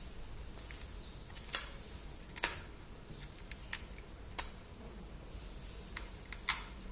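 A dog gnawing and biting at a coconut: irregular sharp clicks and cracks of teeth on the hard husk, about seven in a few seconds, the loudest two coming close together early on and another near the end.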